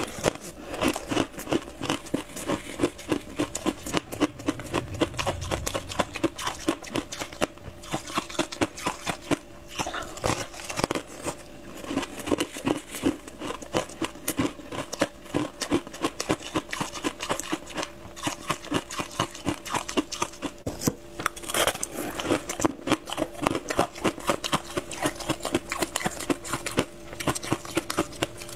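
Close-miked chewing of a crispy fried buckwheat pastry, with rapid crackly crunches several times a second.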